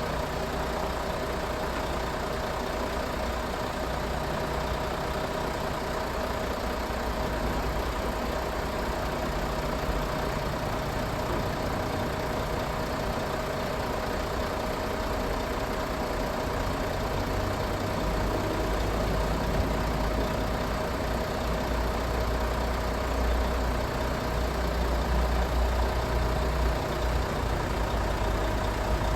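Truck engine running steadily, with a steady whine over it. The low rumble grows stronger about two-thirds of the way through.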